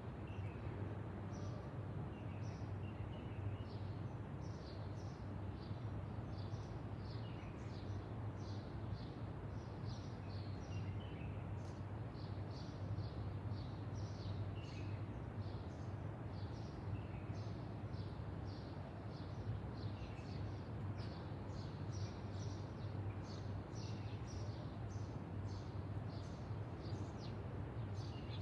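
Birds chirping, short high chirps repeating about twice a second, over a steady low hum and even background noise.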